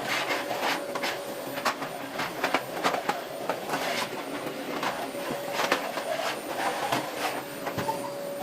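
Irregular clicks, knocks and rubbing of household cleaning work, with a faint steady tone that comes and goes.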